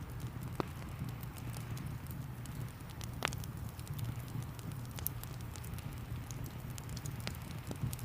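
Wood fire crackling with many small sharp pops over a steady rushing rain background, with a few louder pops, about half a second, three seconds and seven seconds in.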